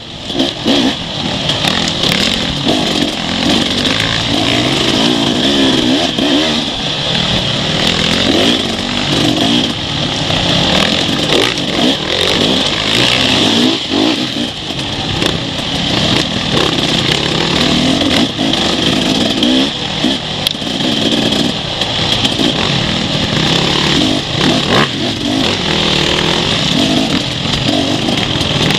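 Off-road enduro motorcycle engine heard from on board, revving up and down over and over as the rider accelerates and backs off, with scattered knocks from the bumpy trail.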